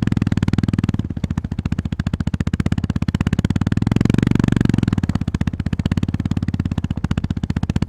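Honda GB350S 348 cc air-cooled single-cylinder engine running under way, a fast even train of firing pulses. The revs and loudness rise briefly about four seconds in, then settle back.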